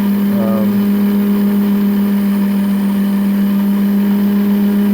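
Electric motor of a rose engine's overhead belt drive spinning the universal cutting frame, running with a steady, even hum.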